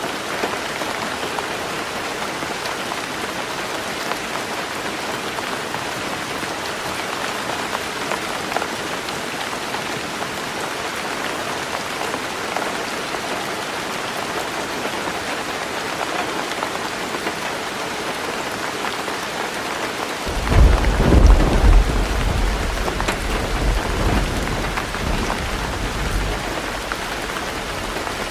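Heavy rain drumming steadily on a roof. About two-thirds of the way through, a deep rumble of thunder rolls in, peaks within a couple of seconds and fades away over several more.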